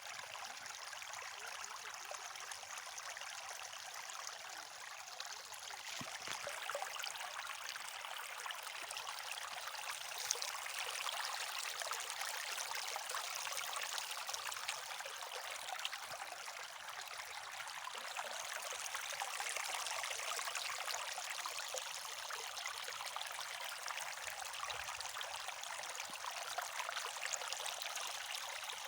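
Shallow stream running and trickling over stones, a steady splashing babble without pauses.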